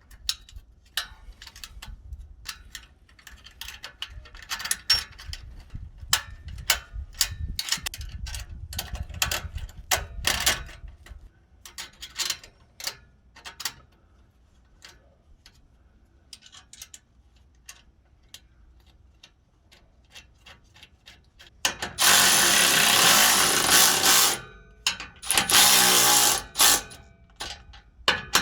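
A hand ratchet clicking in irregular runs, consistent with a band clamp's bolts being tightened on the exhaust. Near the end come two loud bursts of rushing noise of about two seconds each, with a third starting right at the close, much louder than the clicking.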